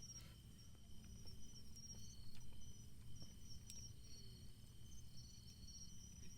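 Crickets singing: a steady high trill with repeated pulsed chirps at a higher pitch, over a low steady rumble.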